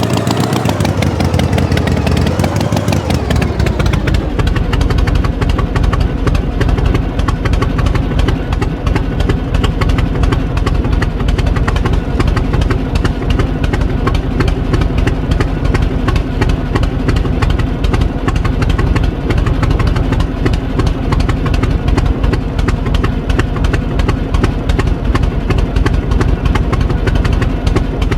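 Tractor engine running, its pitch sliding down and up for the first few seconds, then settling into a steady idle about four seconds in.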